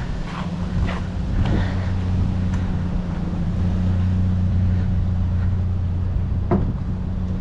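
Vehicle engine running with a steady low hum, with a few light knocks.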